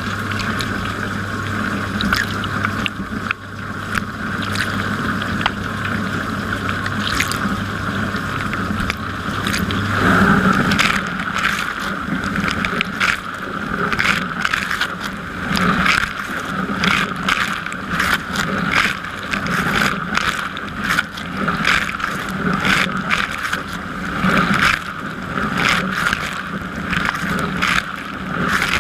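Dishwasher running a wash cycle, heard from inside the tub: water spraying and splashing with many sharp spatters. A steady low motor hum stops about a third of the way through, and after that the spray comes in repeated surges.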